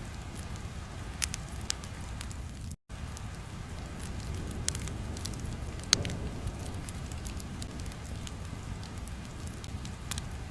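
Ambient crackling sound: a steady low rumble with scattered sharp pops at irregular intervals, broken by a brief dropout about a quarter of the way in.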